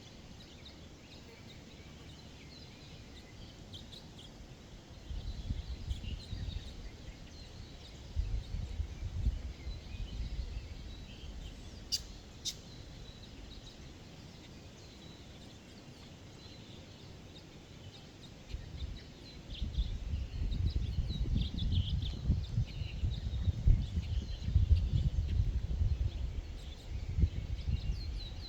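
Faint, scattered chirps and calls of Hawaiian forest birds, over low rumbling noise that comes in gusts and grows loudest in the second half. Two sharp clicks come near the middle.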